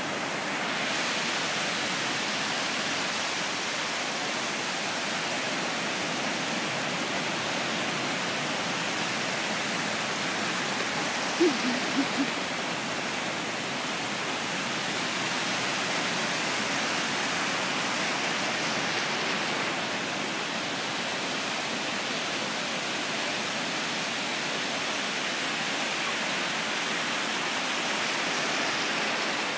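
Steady rushing wash of ocean surf. About halfway through come three short pitched blips close together, the loudest sounds heard.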